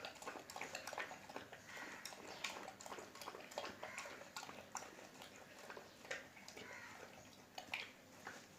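Saint Bernard eating, making irregular wet clicking and smacking sounds.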